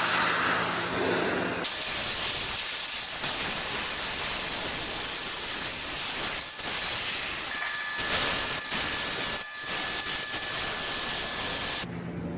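Oxy-acetylene torch with a scarfing tip gouging out a weld: the cutting-oxygen jet comes on with a loud, steady hiss about one and a half seconds in, blowing out molten metal, and cuts off shortly before the end.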